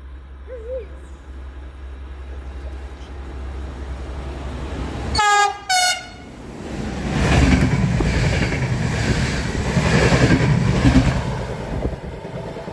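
A train approaching sounds its horn in two short blasts about five seconds in, the second briefer. It then passes close by with a loud rush and rumble of wheels on rail.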